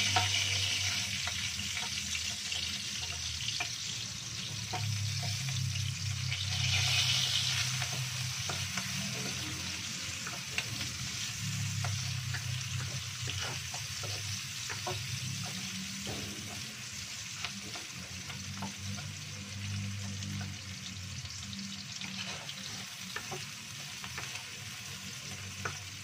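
Sliced shallots and garlic sizzling in hot oil in a wok, stirred with a wooden spatula that knocks and scrapes against the pan. The sizzle surges about seven seconds in, then slowly eases.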